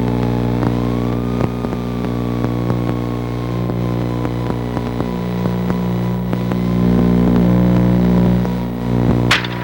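Piper Seneca's twin piston engines and propellers droning steadily, heard inside the cabin. The drone grows louder for about a second and a half near the seventh second, and a short sharp noise comes near the end.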